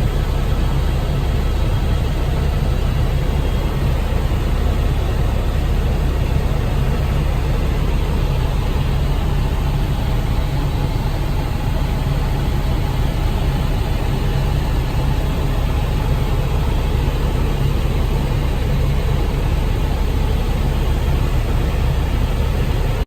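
Helicopter in flight heard from inside the cabin: a steady, loud engine and rotor drone that does not change.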